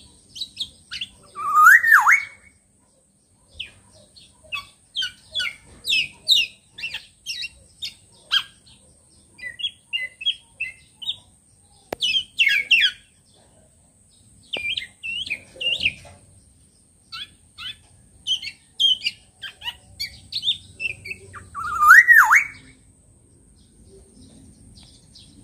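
Black-naped oriole (kepodang) calling: a run of short, sharp chirping notes with pauses, and two loud rising calls, one about two seconds in and one near the end.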